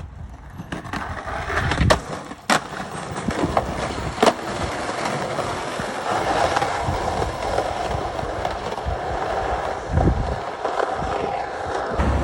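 Skateboard riding: a few sharp clacks of the board in the first four seconds, then the steady roll of the wheels on pavement.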